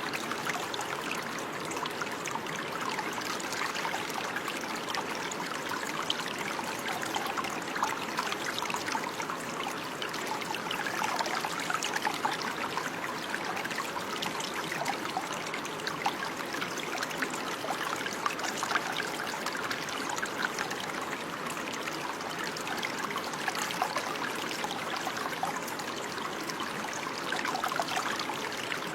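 Water running steadily over stones in a small stream, a continuous trickling and babbling without pauses.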